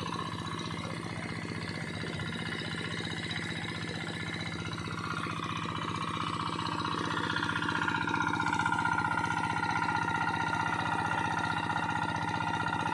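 A small engine runs steadily, driving a suction pump, with a high whine over it that grows louder and climbs a little in pitch about halfway through.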